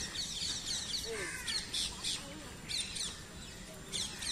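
Birds chirping: short runs of quick, high chirps, repeated several times.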